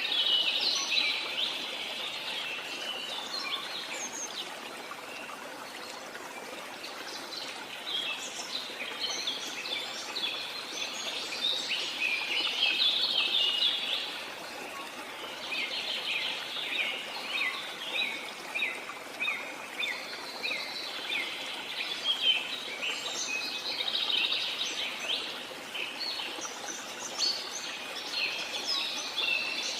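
Steady rush of a jungle waterfall, with a chorus of fast high bird chirps that swells and fades in bouts of several seconds.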